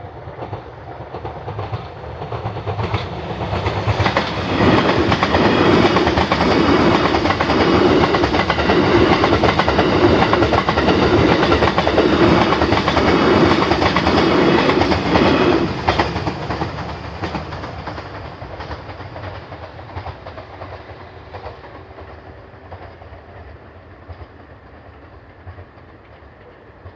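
The TRAIN SUITE Shiki-shima (JR East E001 series) passing over a level crossing. It swells in over a few seconds, then its wheels clatter over the rail joints in a steady rhythm for about ten seconds. The sound fades away slowly as the train leaves.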